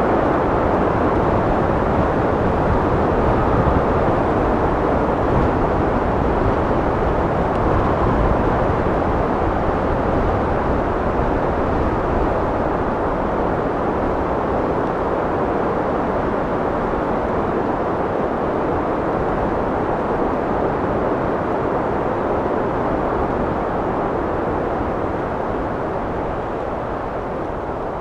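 Steady wind blowing, a low rushing noise without gusts or breaks, easing slightly near the end.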